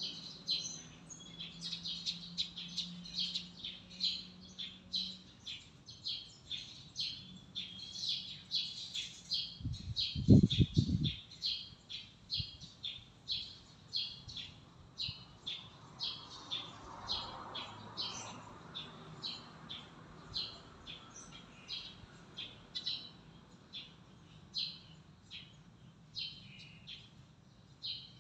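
A bird chirping over and over, short high chirps about one to two a second. A brief low rumbling thump about ten seconds in is the loudest sound.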